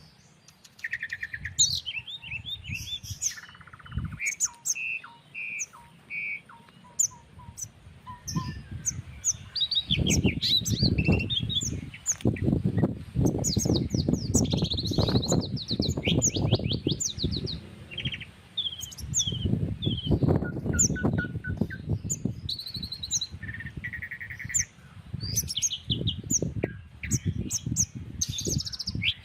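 Several countryside birds chirping and calling over one another in short repeated notes and trills. From about eight seconds in, a gusty breeze rumbles low underneath and is the loudest sound.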